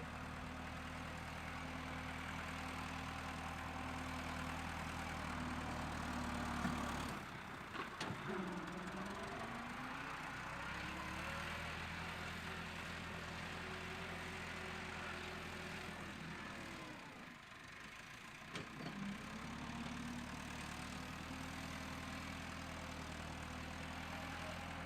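An engine running steadily at idle. Twice its pitch dips and comes back up before it settles again, once about a third of the way in and again about two-thirds in.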